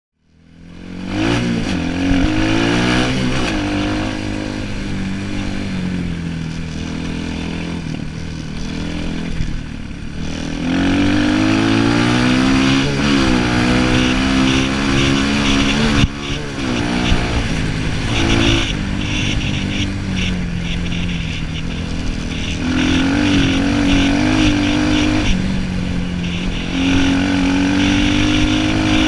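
Orion 250cc dirt bike engine being ridden hard: it revs up and eases off over and over, its pitch climbing and dropping as the throttle opens and closes. It fades in over the first second.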